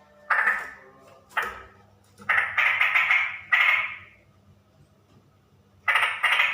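Female straw-headed bulbul (cucak rowo) calling in loud, short bubbling bursts, several in quick succession. The calls pause for about two seconds in the middle and resume near the end.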